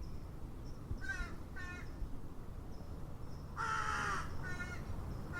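A bird calling in the background, four short harsh calls, the third the loudest, about two-thirds of the way through.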